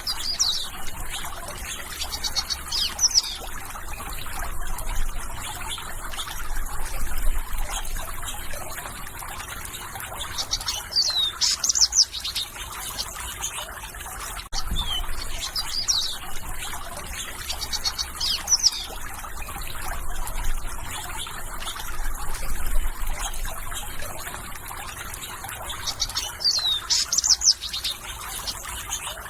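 Songbirds chirping in short bursts of quick, high, downward-sweeping notes every few seconds, over a steady background hiss.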